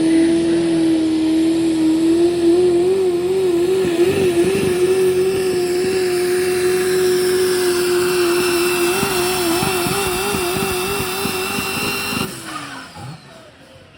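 A pulling truck's engine runs at full throttle, dragging the weight sled. The engine note holds high and steady, wavers twice as the revs surge and dip, then is cut about twelve seconds in and winds down.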